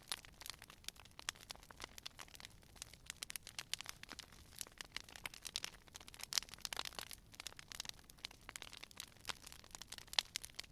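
Wood fire crackling: a stream of irregular sharp pops and snaps over a faint hiss, with a few louder pops along the way.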